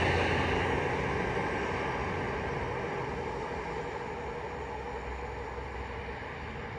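A passing train moving away, its rumble fading steadily.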